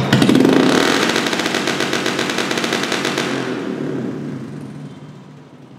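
Royal Enfield Bullet single-cylinder engine revved hard, a loud rapid train of exhaust pulses. After about three and a half seconds the revs fall away and the engine dies down to a low level near the end.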